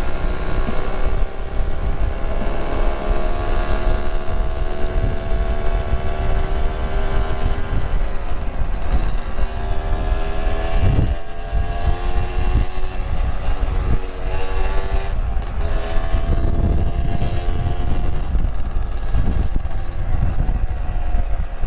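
A Yamaha RX-King's two-stroke single-cylinder engine pulls hard through a replaced exhaust while riding. Its pitch climbs and drops back several times as it accelerates through the gears, over a heavy low rumble.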